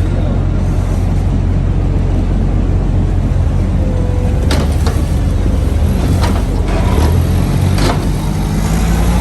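Semi-truck's diesel engine idling with a steady low hum, with a few sharp clanks in the second half.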